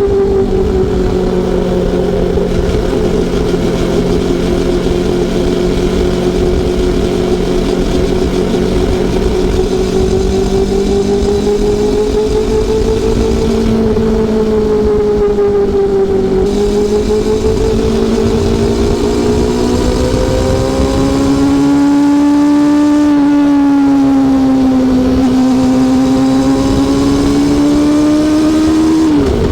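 Honda CB400SF Super Four's inline-four engine running steadily under way, its pitch drifting slowly. The revs climb gently in the second half and drop sharply just before the end.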